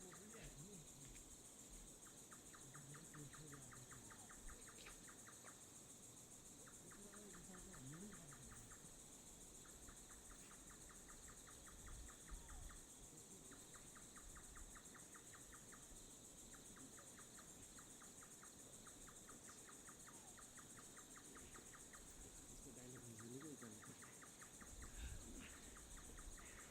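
Faint night insect chorus: a steady high-pitched buzz throughout, with a lower pulsed trill of crickets repeating in runs of about two to three seconds at roughly ten pulses a second.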